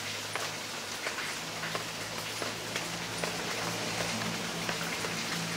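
Steady rain falling and pattering on surfaces, with many separate drops ticking. A faint steady low hum runs underneath.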